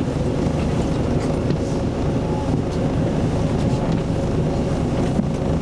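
Isuzu Erga Mio city bus with an Aisin automatic transmission, its diesel engine running with a steady low rumble, heard from inside the passenger cabin.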